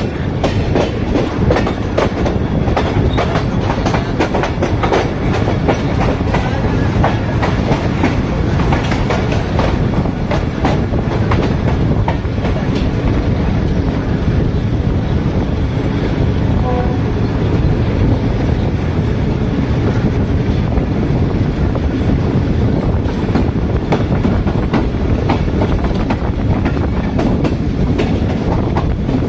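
Pakistan Railways express passenger train running on the line, heard from aboard: a steady rumble of the coaches with wheels clicking over the rail joints.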